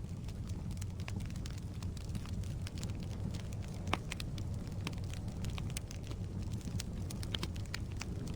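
Wood logs burning in a fireplace: a steady low rumble of the flames with frequent irregular crackles and pops, one sharper pop about four seconds in.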